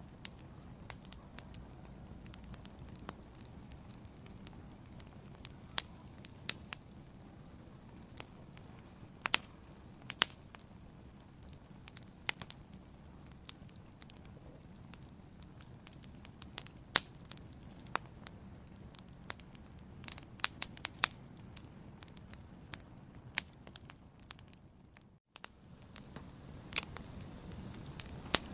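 Wood fire burning in a fireplace: a soft steady rumble with irregular sharp crackles and pops, a few of them much louder than the rest. The sound cuts out for a split second near the end.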